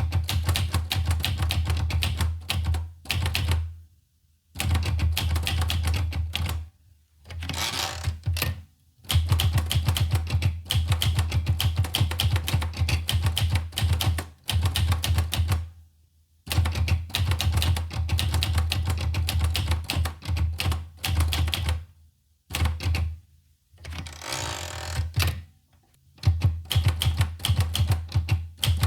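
Olivetti Lettera 25 manual portable typewriter being typed on, with rapid key strikes in bursts broken by short pauses.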